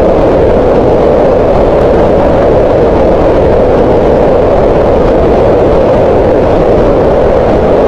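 Green noise: a steady, even hiss centred on the mid frequencies around 500 Hz, with little high treble, holding constant without change.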